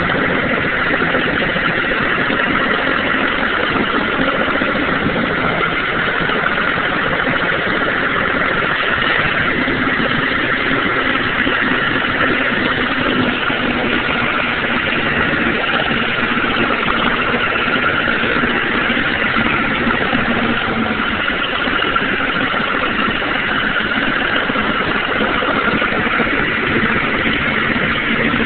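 John Deere tractor engine idling steadily just after a cold start, very loud.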